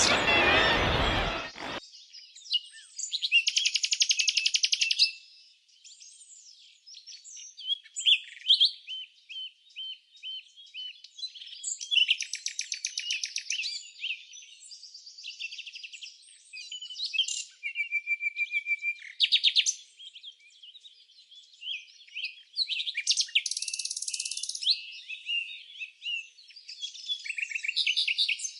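Songbirds singing: high-pitched chirps and fast trilled phrases, the trills recurring every few seconds. A louder, deeper sound cuts off suddenly about two seconds in.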